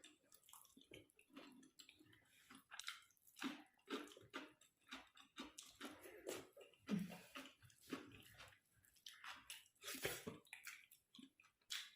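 Quiet eating sounds: chewing and wet mouth noises, with scattered small clicks at irregular moments.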